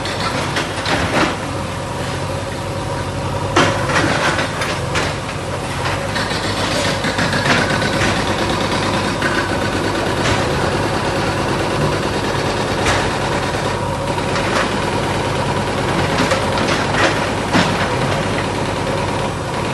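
Heavy diesel engine of a demolition bulldozer running steadily, with scattered sharp knocks and clatters over it.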